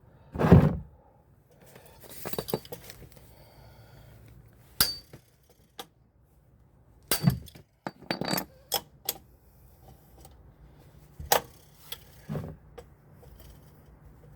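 Hand tools clinking and knocking against metal as a wrench is fitted to and worked on a tight nut: a string of separate sharp metallic clinks and short scrapes. The loudest is a heavy thump about half a second in.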